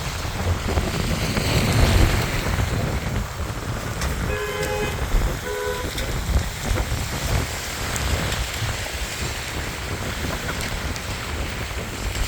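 Strong wind buffeting the microphone in a steady low rumble. A vehicle horn honks twice about four and a half seconds in, a longer honk and then a short one.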